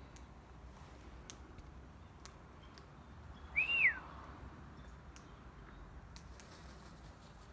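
A bird gives one short whistled call about halfway through, rising and then falling in pitch. Faint scattered ticks are heard around it.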